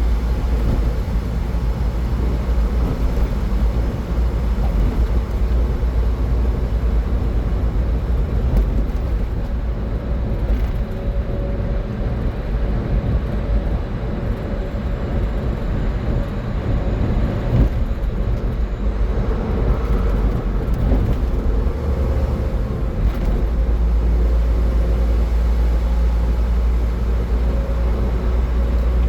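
Car driving at highway speed, with a steady low rumble of road and engine noise.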